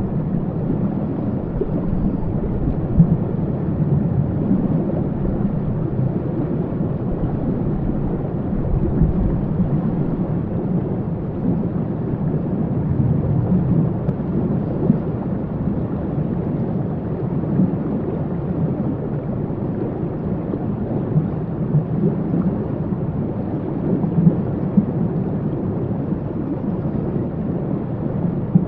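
Waterfall: a steady, deep rush of falling water, heaviest in the low range.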